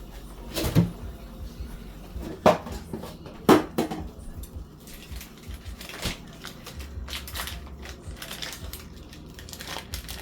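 Kitchen handling sounds: pots, dishes and cupboard doors knocking and clattering, with several sharp knocks in the first six seconds, the loudest about two and a half and three and a half seconds in.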